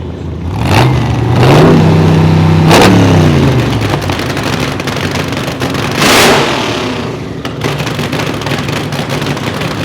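Car engine revved: its pitch climbs about a second in, holds high, then falls back around three seconds. Several short loud blasts of noise come through it, the loudest about six seconds in.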